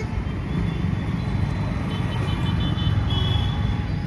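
Steady low rumble of a running motor vehicle, with a few short high-pitched tones about halfway through and again near the end.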